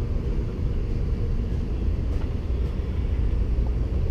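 Steady low rumble of a Shinkansen bullet train running, heard inside the passenger cabin.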